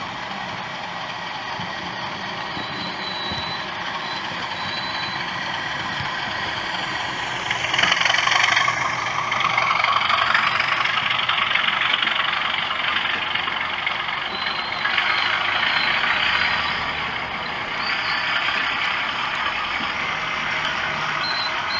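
Sound-fitted (DCC) OO gauge model locomotive running, with its speaker playing engine sounds over the rumble of wheels on track. It swells into a louder rushing noise about eight seconds in and stays up.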